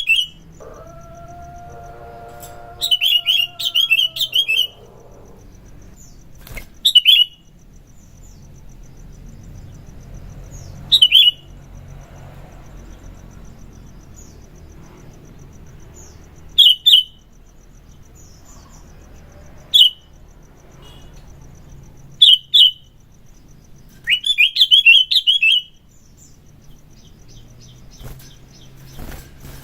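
Sooty-headed bulbul (kutilang) singing: short, loud, bubbling phrases repeated every few seconds, with a longer run near the end. A faint held tone sounds for about three seconds near the start.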